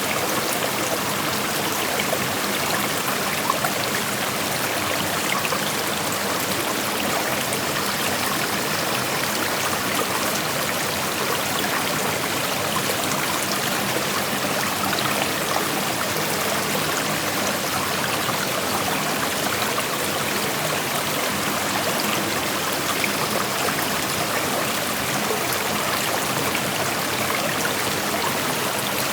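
Shallow creek flowing over rocks: a steady rushing and babbling of water with small splashes and trickles.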